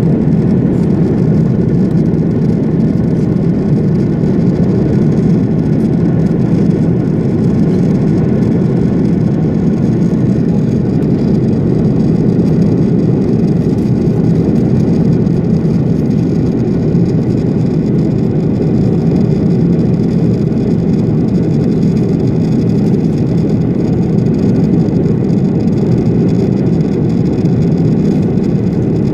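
Steady cabin noise inside an Airbus A330-300 airliner in flight: an even low rush of engines and airflow, with faint steady whining tones above it.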